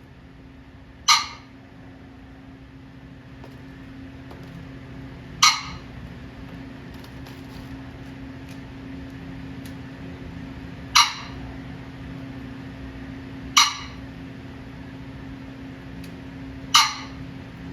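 Cock pheasant calling: five short, loud, harsh squawking calls at irregular gaps of a few seconds.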